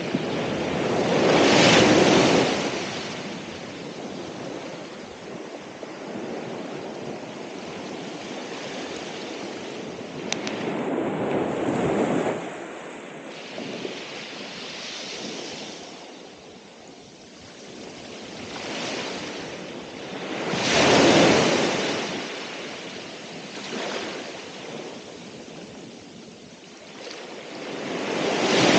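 Ocean waves breaking on the shore: a rushing surge about every nine to ten seconds, with a quieter wash of surf in between.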